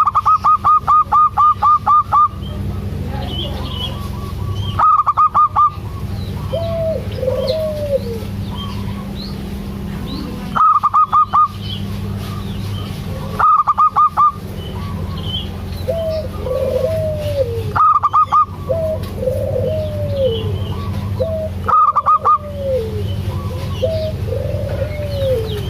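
Zebra dove (perkutut) calling: loud bursts of rapid staccato notes, a long run at the start and shorter runs of three or four notes every few seconds, with softer arched coos in between. A steady low hum runs under it.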